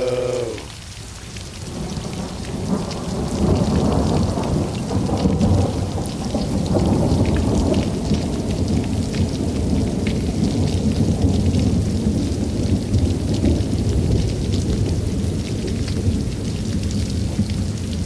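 Rain falling with thunder rumbling low and long, swelling over the first few seconds and then holding steady.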